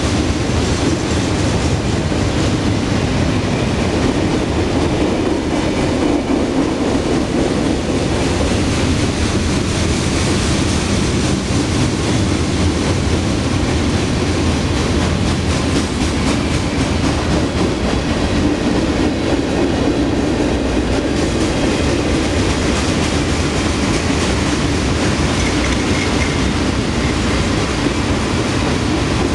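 Cars of a Norfolk Southern mixed freight train rolling past close by: a steady, loud rumble of steel wheels on rail.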